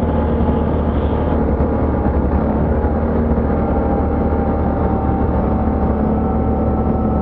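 ATV engine running steadily with a low, even drone.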